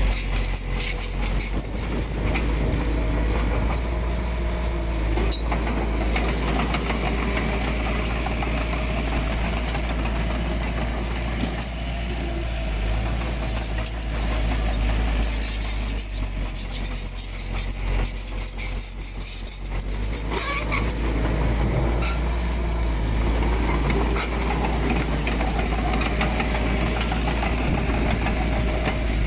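Diesel engine of heavy earthmoving machinery running steadily at work, with a constant low rumble. Spells of high metallic clatter come and go over it.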